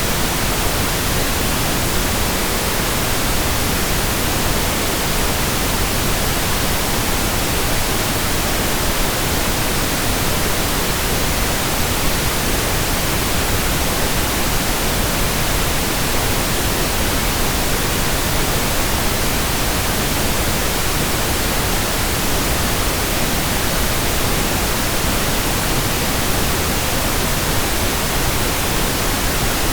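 Steady pink noise: an even, unchanging hiss spread across all pitches, with more weight in the lows than white noise.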